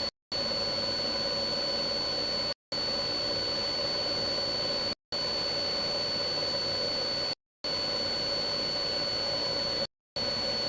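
Steady engine and cabin drone of a police aircraft, with a few constant whining tones. It is cut by brief total silences about every two and a half seconds.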